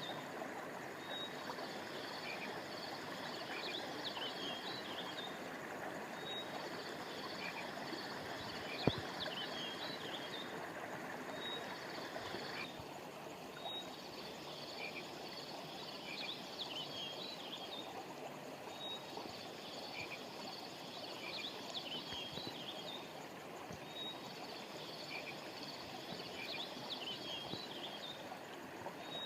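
Steady rush of a flowing stream under a chorus of high, pulsing animal calls that come in repeated bouts of a few seconds each. A single sharp click sounds about nine seconds in.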